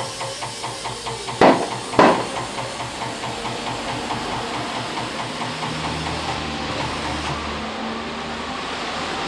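Tyre-shop equipment at work: a machine pulsing about four times a second under a steady hiss of air, with two loud bangs about a second and a half and two seconds in, and a low hum for a couple of seconds near the end.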